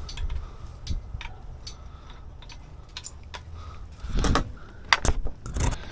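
Scattered light metallic clicks and clinks of hands rummaging among car parts and tools, with a few louder knocks about four to six seconds in.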